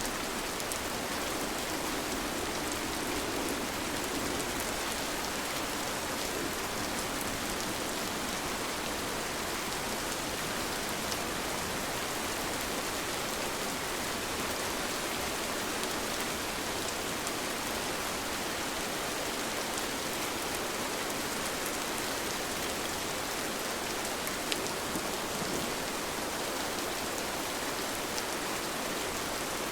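Steady rain falling: a dense, even hiss with a few faint drop ticks scattered through it.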